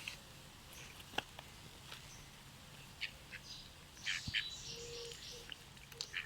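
Birds giving short scattered calls, with a busier cluster of calls about four seconds in.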